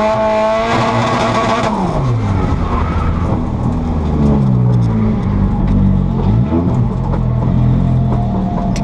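Nissan S13 drift car's engine heard from inside the cabin, held at high revs with the tyres sliding and hissing, then lifted off about two seconds in: the tyre noise stops and the engine falls steeply to low revs. It then runs low with a few short rises and falls in pitch as the car slows at the end of the drift run.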